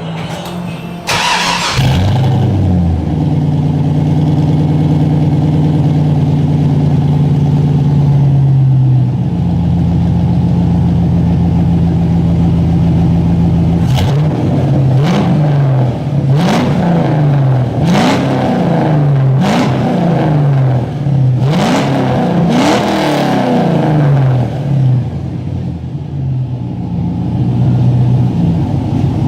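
LS1 V8 in a Mazda RX-7, heard through a single Skunk2 3-inch muffler into dual 2.5-inch pipes, starting about a second in and flaring, then idling. In the middle it is blipped through a quick series of short revs before settling back to idle. The exhaust is loud.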